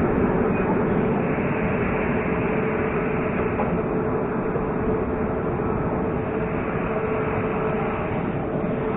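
Passenger train in motion: a steady rumble of running noise with a steady hum over it.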